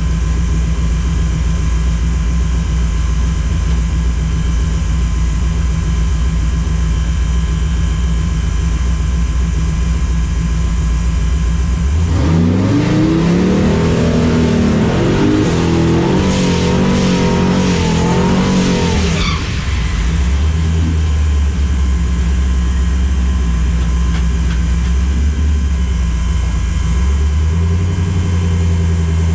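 A car engine idles with a steady low drone. About twelve seconds in it revs up hard and holds high, wavering revs for about seven seconds, then drops back to idle.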